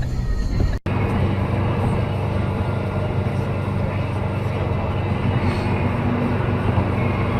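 Steady engine and road noise of a moving vehicle, with a steady low hum. The sound drops out for an instant a little under a second in, then runs on evenly.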